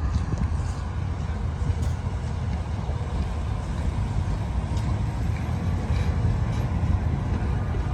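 Steady low rumble of a vehicle in motion, with faint scattered clicks above it.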